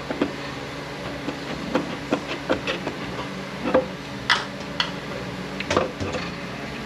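Metal transmission internals clinking and knocking against each other and the case as they are handled and lifted out during a teardown. The knocks come irregularly, a few a second, with a sharper ringing clink about four seconds in, over a steady low hum.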